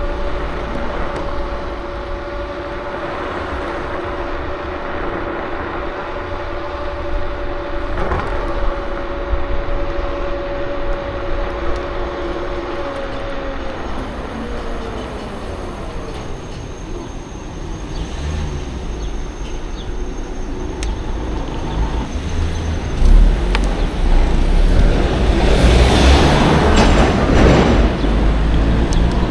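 KuKirin G2 electric scooter riding: a steady motor whine over wind and road rumble, the whine dropping in pitch about halfway through as the scooter slows. A louder rush of noise fills the last few seconds.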